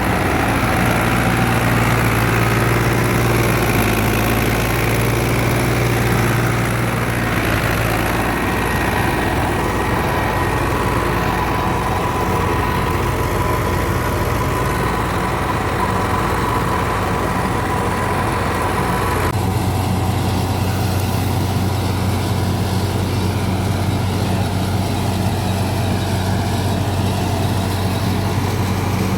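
Fiat 640 tractor's diesel engine running steadily under load while driving a wheat thresher, with the thresher's machinery humming along. The sound changes abruptly about 7 seconds and again about 19 seconds in.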